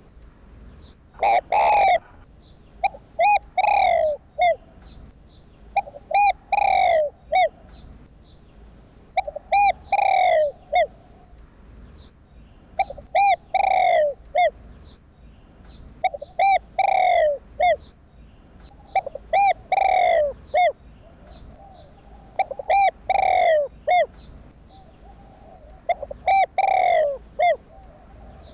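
Spotted dove cooing loudly over and over, a phrase about every three seconds. Each phrase is two or three short coos followed by a longer coo that falls in pitch.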